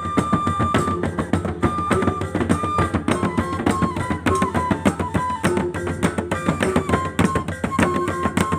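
Gordang sambilan, the Mandailing set of tuned barrel drums, playing a fast, dense interlocking rhythm. Over the drums, a wind instrument holds long notes that step down in pitch.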